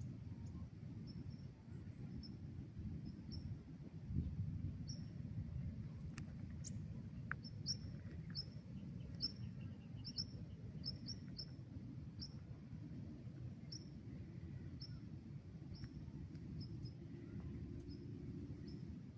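Outdoor nature ambience: a steady low rumble with many short, high chirps repeating irregularly over it, and a faint steady high insect drone.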